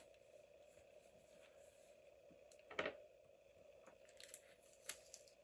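Near silence over a faint steady hum, with a few brief soft crinkles and taps from washi tape and paper being handled. The clearest comes about three seconds in, with a few smaller ones near the end.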